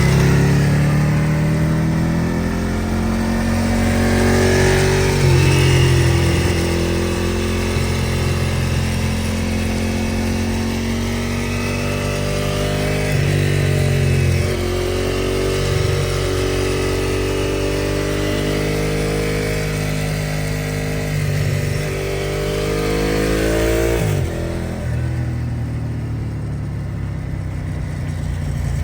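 Ducati 1098R's L-twin engine running through a Termignoni full racing exhaust, loud, with revs rising and falling. The engine note climbs slowly over several seconds, then falls sharply about 24 seconds in to a lower, steadier note.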